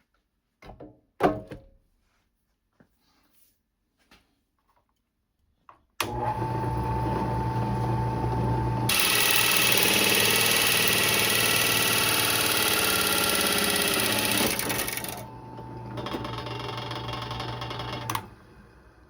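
A power drill starts up and runs with a steady whine, then cuts into the thin sheet metal of a toolbox with a loud harsh cutting noise for about six seconds. The metal is so flexible that it gives under the bit rather than being cut cleanly. The cutting eases off, the drill runs free for a couple of seconds and stops near the end, after a few small clicks about a second in.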